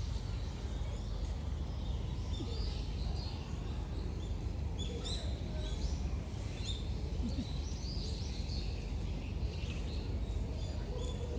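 Small birds chirping repeatedly in short high calls, several in quick succession about five seconds in, over a steady low background rumble.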